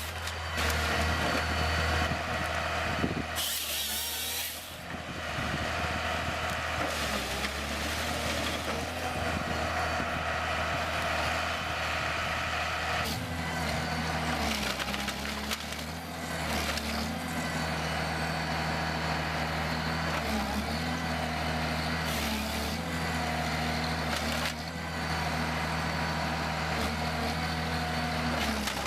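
Heavy diesel machinery running steadily, with several short bursts of hissing.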